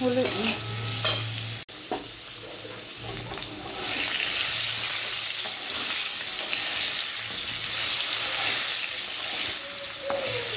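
Potato chunks sizzling as they shallow-fry in a little hot oil in a metal kadai, turned with a metal spatula that knocks and scrapes against the pan a few times early on. The sizzle gets louder about four seconds in.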